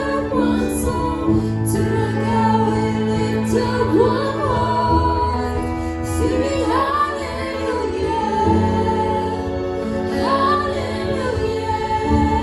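Worship song: a woman sings a slow melody over held chords that change every few seconds.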